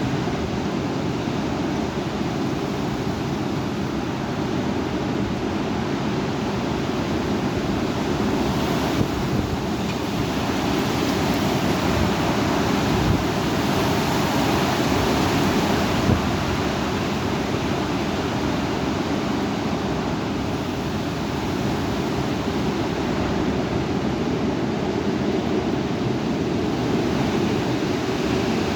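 Severe thunderstorm wind and rain: a steady rushing noise that swells for a while in the middle, with gusts buffeting the microphone.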